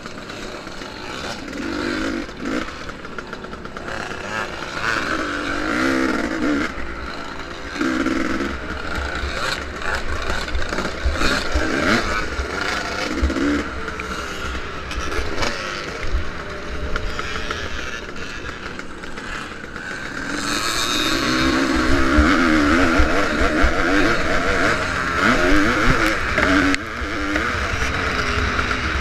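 Vintage motocross dirt bike engines racing, revving up and down repeatedly as the bikes accelerate and back off. The engine noise grows louder about two-thirds of the way through.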